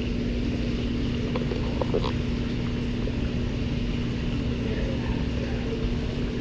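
Steady machine hum with one constant low tone, and a few faint clicks about two seconds in.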